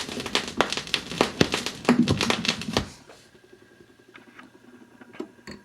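A quick run of loud, irregular clicks and taps for about three seconds, then it drops to low level with only a few faint ticks.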